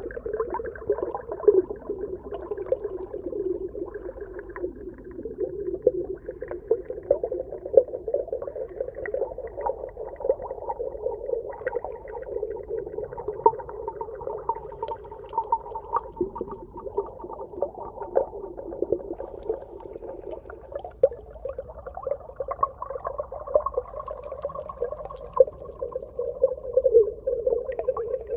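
Underwater ambience: a steady, muffled murmur with dense small pops and crackles throughout and a faint higher hum.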